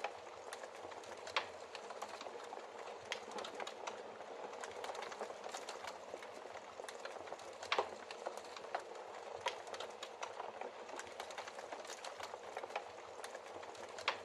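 Logs burning in a fireplace, crackling: a steady hiss with frequent irregular pops, two louder pops about a second and a half in and near eight seconds in.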